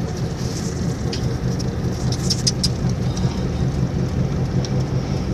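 Steady low drone of a vehicle's engine and road noise heard from inside the cabin while driving, with a few light sharp ticks about a second in and again around the middle.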